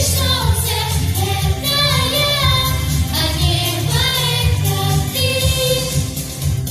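A song with sung vocals: a melody of phrases with wavering held notes over a steady low accompaniment.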